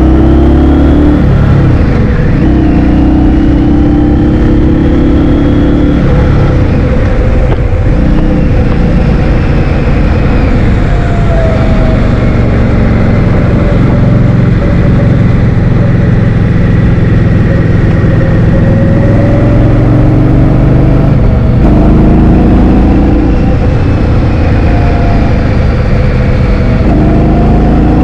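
Motor scooter engine running on the move, its pitch rising and falling several times with changes in speed, under a heavy, loud rumble of wind on the microphone.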